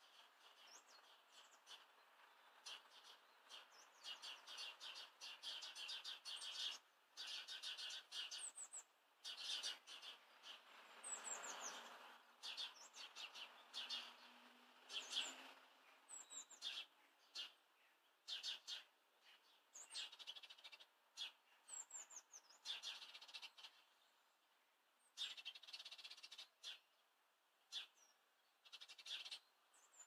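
Small songbirds chirping: a run of short, high chirps, busiest in the first half, with a few quick falling notes now and then.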